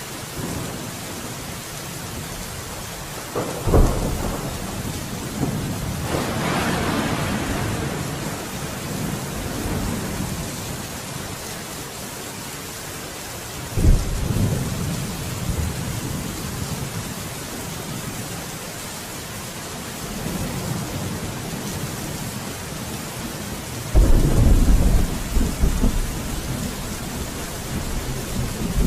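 Steady rain with thunder: sharp cracks about three and a half seconds in and again about fourteen seconds in, a rolling rumble between them, and the loudest, longest rumble starting about twenty-four seconds in.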